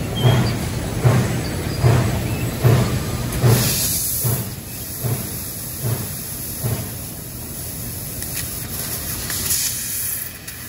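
Amada LC3015F NT 4000-watt CO2 laser cutting machine cutting 12 gauge steel. It gives a rhythmic low thump about every 0.8 s for the first four seconds, the thumps weakening and thinning out after that. A steady hiss carries on over the cut.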